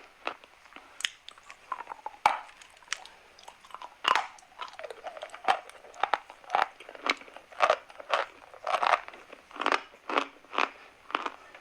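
Chalk being bitten and chewed, a run of crisp crunches, irregular at first, then settling to about two a second.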